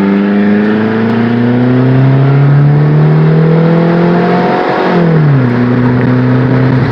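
Straight-piped GM 2.2L four-cylinder with no muffler pulling hard under full throttle, its revs climbing steadily. About five seconds in the pitch drops quickly at the upshift, then it pulls on at lower revs.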